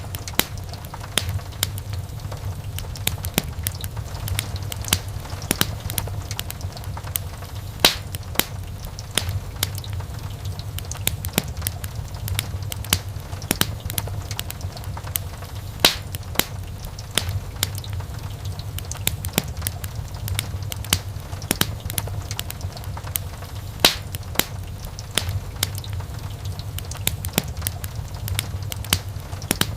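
Wood fire in a fireplace crackling, with frequent irregular sharp pops and snaps from the burning logs over a steady low rumble of the flames; a few pops stand out louder.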